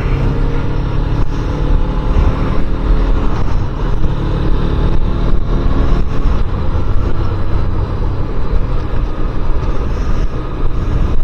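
Motorcycle engine running at a steady pace while riding, under a continuous low rumble of road and air noise.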